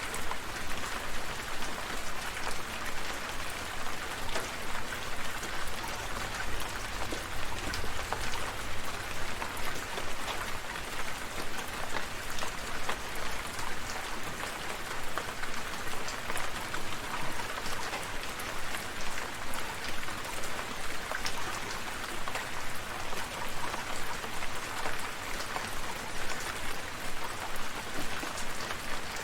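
Steady rain falling, with many close, distinct drops pattering on surfaces over an even hiss. There is a faint low rumble in the first half.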